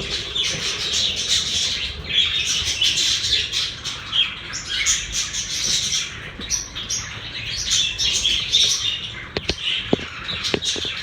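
Pet budgerigars chattering and warbling continuously, a busy flock of chirps and squawks, with a few sharp taps or clicks near the end.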